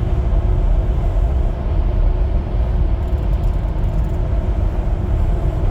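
Jeep Gladiator being driven, a steady low road and drivetrain rumble with a faint steady hum above it. Its new 5.13 ring and pinion gears are still in their break-in period.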